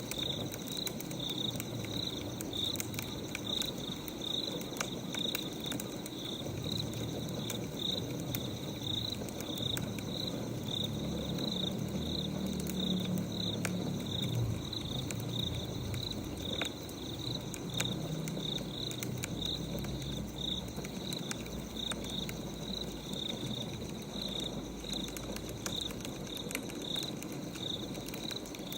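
Crickets chirping steadily, about two chirps a second, over the crackle and pop of a wood fire.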